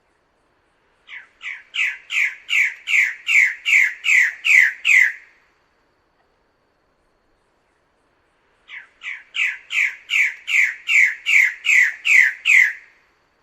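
A bird-of-paradise calling two series of loud, harsh down-slurred notes, about eleven notes in each at roughly two and a half a second. Each series grows louder as it goes, and they are separated by a few seconds' pause.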